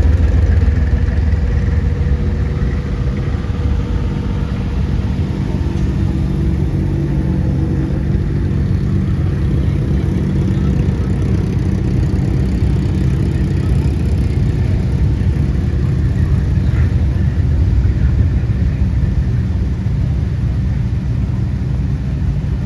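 Car engine running with a steady low rumble, its pitch shifting slightly over time.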